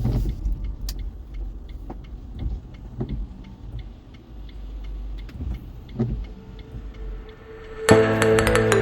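A car driving, heard as a steady low road and engine rumble with scattered light ticks about once a second. Music comes in near the end.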